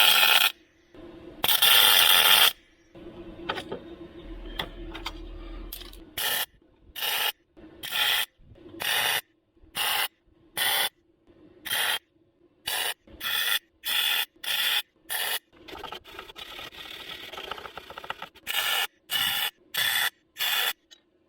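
Hand abrasive work on the car's sheet-metal bodywork: repeated back-and-forth scraping strokes of a file or sanding block, about two a second, with a brief steadier rub partway through.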